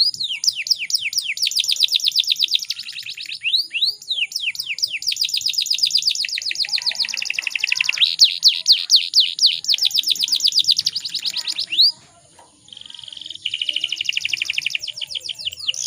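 Canary singing fast rolling trills of rapidly repeated downsweeping notes, changing trill type several times, with a short break about twelve seconds in.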